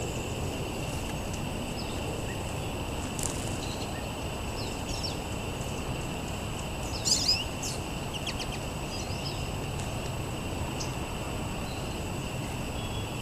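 Wild songbirds giving a few short, high chirps over a steady low background rumble, the loudest a quick double chirp about halfway through.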